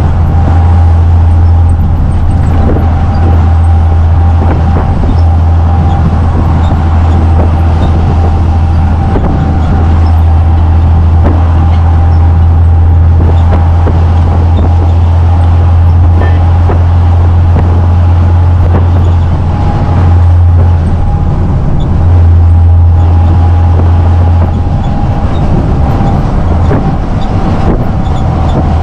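Heavy truck driving, heard from inside the cab: a loud, steady low engine drone with road noise and a thin steady whine above it.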